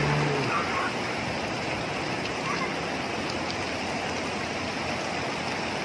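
Steady rushing of water, an even unbroken noise.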